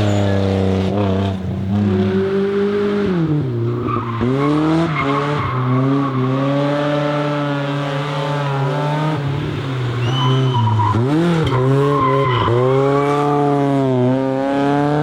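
BMW E30 M3's four-cylinder engine being driven hard, its note climbing and falling again and again as it accelerates, lifts off and changes gear, with sharp drops in pitch about three, four, eleven and twelve seconds in.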